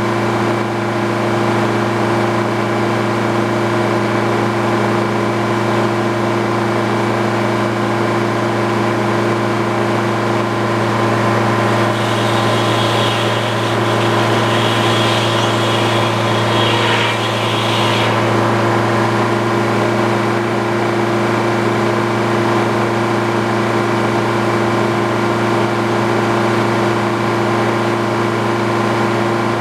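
Old Frick circular sawmill running steadily, its power unit and spinning blade making a constant machine drone. For several seconds near the middle a higher whine rises over the drone and then drops away.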